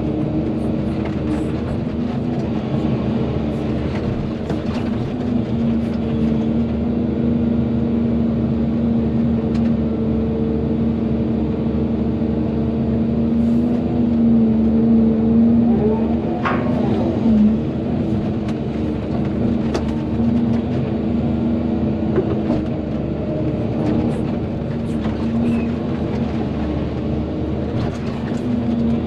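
Volvo EC220DL excavator's diesel engine running steadily as it works, with scattered short knocks. A little past halfway a whine rises and falls back over about a second.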